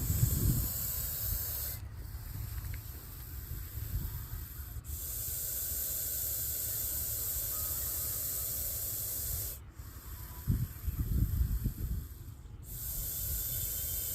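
Russell's viper hissing when threatened, a steady high-pitched hiss like a pressure cooker whistle, broken four times by short pauses. Low rumbling comes at the start and again about ten to twelve seconds in.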